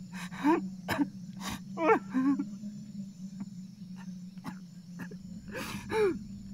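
A man's voice making a few short, strained cries and groans with breaths between them, over a steady low hum.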